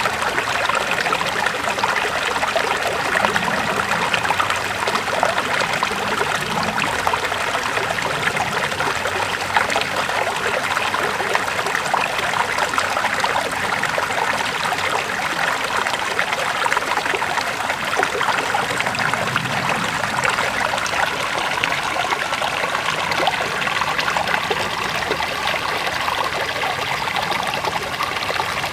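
River water flowing and rushing over stones: a steady, even splashing and trickling that never lets up.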